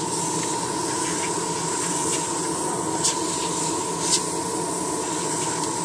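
Hobby spray booth's exhaust fan running steadily, a constant rushing air noise with a hum in it. A few faint light ticks come about a second apart near the middle.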